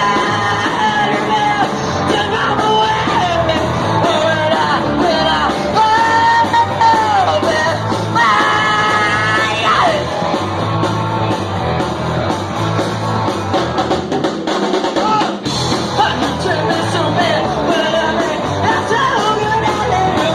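Live garage-soul/blues-punk rock band playing, with a singer yelling and wailing over bass, drums and fuzz guitar. The bass and drums drop out for about a second near three-quarters of the way through, then come back in.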